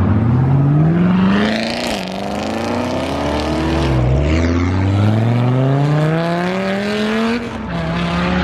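A car engine at full throttle accelerating hard, its pitch climbing steadily and dropping sharply at each gear change about two, four and seven and a half seconds in.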